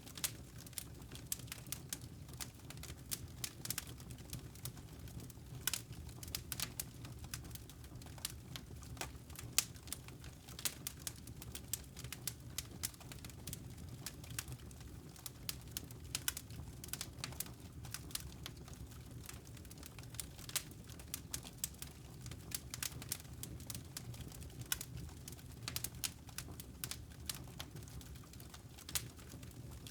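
Wood fire crackling in a fireplace: irregular sharp pops and ticks, several a second, over a steady low rumble of the burning logs.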